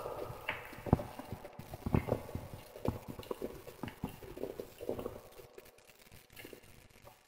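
Wood fire crackling, with irregular sharp pops and snaps that thin out toward the end.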